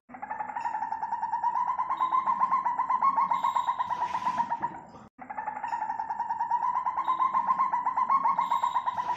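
Civet call: a fast train of pulses held at one steady pitch. It breaks off abruptly about five seconds in and starts again, as a looped sound effect.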